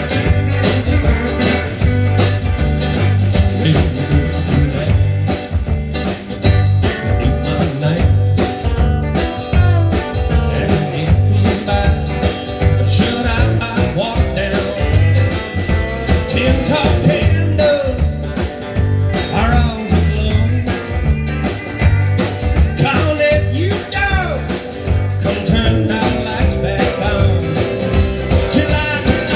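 Live band playing an instrumental break of a country-rock song, with guitar over a steady beat.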